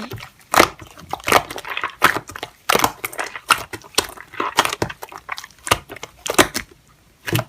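Slime being pressed and worked by hand, giving an irregular string of sharp clicks and crackles, several a second.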